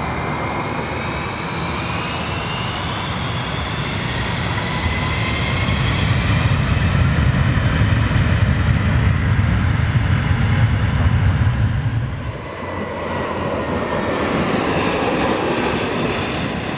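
Jet airliner's engines passing close, a loud rumble with a high whine that glides in pitch. The rumble builds to its loudest in the middle, drops off sharply about twelve seconds in, then swells again briefly.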